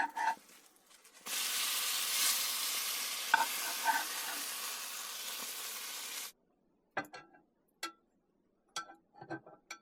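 Cinnamon rolls sizzling in a very hot pan as they are turned over, a steady sizzle that cuts off suddenly after about five seconds. A few light clicks of a utensil against the pan follow.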